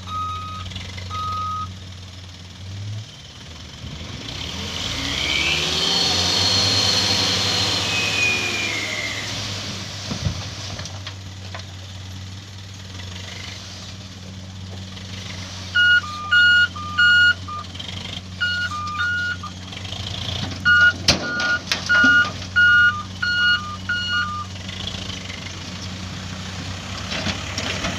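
Dump truck engine running steadily, with its single-tone reversing beeper sounding at the start. The engine revs up and then settles back, and about halfway through an alternating two-note beeper starts sounding in short runs.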